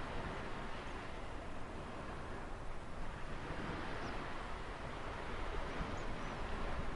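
Ocean waves washing in a steady rushing surge that swells and eases, with a few faint high chirps.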